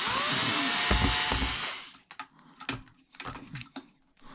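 Power drill with a Robertson (square-drive) bit spinning up with a rising whine and running for about two seconds, driving out a screw on a dishwasher motor. Afterwards come a few light clicks and knocks of metal parts being handled.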